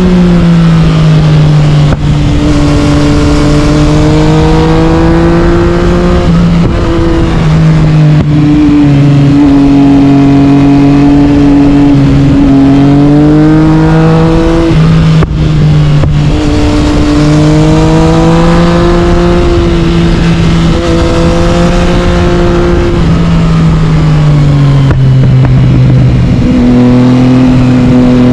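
Yamaha MT-09's three-cylinder engine through an Akrapovic carbon exhaust, loud and pulling on a mountain road, its note rising and falling with the throttle. It is broken by several short dips, the gear shifts.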